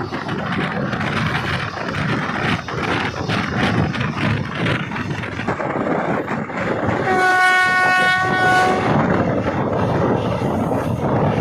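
Running noise of a moving passenger train, a steady rumble with wheels clacking over the rail joints, and about seven seconds in a single blast of about two seconds from the GE diesel-electric locomotive's horn.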